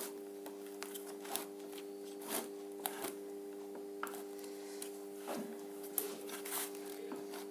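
Scattered light clicks and rustles of small parts being handled, over a steady hum.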